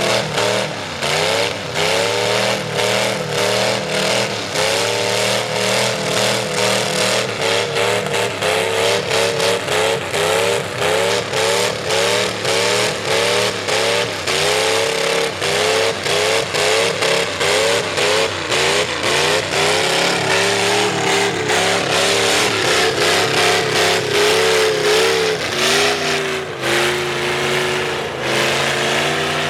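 V8 mud truck engine with open upright headers, revved in quick repeated bursts of throttle, its pitch rising and falling back about twice a second, then held steadier near the end.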